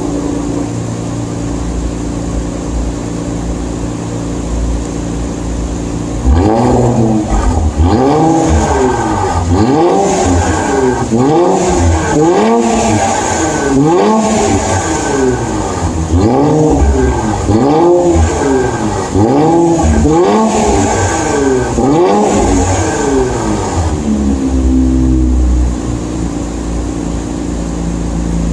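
Infiniti Q50 exhaust, with a Rev9 cat-back and PLM Helmholtz axle-back and no resonators, idling with a low rumble. About six seconds in it is revved up and down over and over, about one blip a second, and near the end it settles back to idle.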